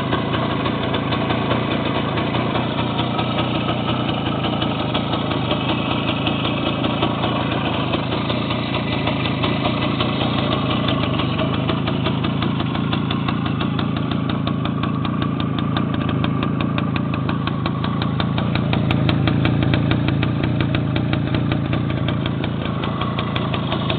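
Two-stroke single-cylinder engine of a 1966 Kovrovets motorcycle idling steadily, with a rapid even beat of firing pulses. It swells a little in level near the end.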